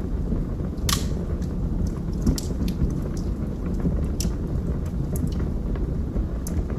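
Wood fire burning in a fireplace: a steady low roar with scattered sharp crackles and pops, the loudest about a second in.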